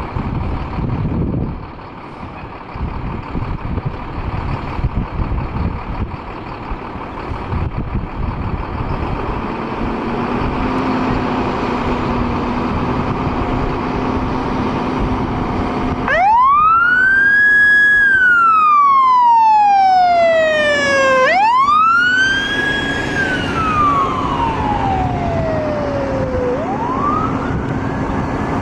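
Fire apparatus responding: a low truck rumble, then about sixteen seconds in a siren starts up on wail, rising and then falling slowly, with three rises, the last near the end.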